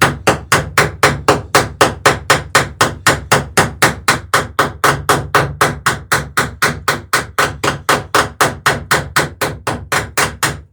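Hammer peening rivets on a wooden dory's sheer strake: a long run of rapid, evenly spaced sharp strikes, about four a second. The strikes stop abruptly near the end.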